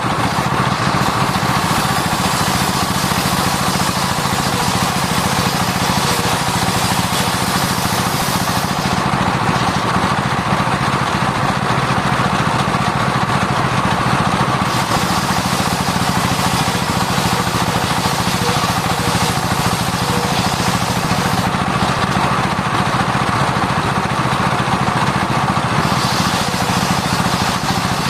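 Sawmill circular saw running steadily while sawing sengon wood. The high hiss drops away twice for several seconds, about nine and twenty-one seconds in.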